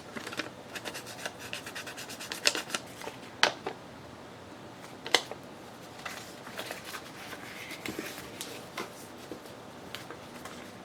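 Paper being torn by hand and handled on a craft table: a crackly ripping run in the first few seconds, then scattered sharp taps and rustles.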